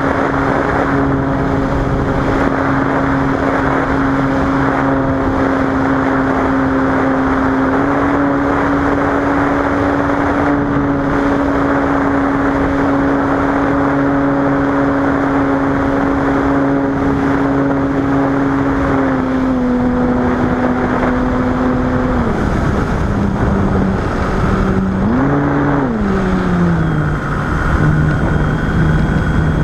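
Cessna 185's six-cylinder engine and propeller droning steadily with a strong rushing noise. The pitch holds for most of the time, drops in steps later on, swells and falls once briefly, then settles lower as the engine speed is brought down.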